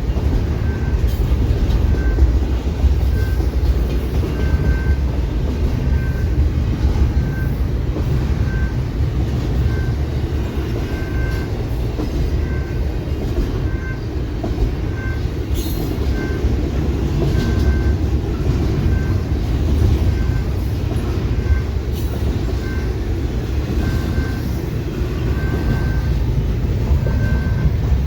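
A train rolling through a level crossing with a steady low rumble of its wheels on the rails. Over it, the crossing's General Signals Type 2 bell rings a short ding about once a second.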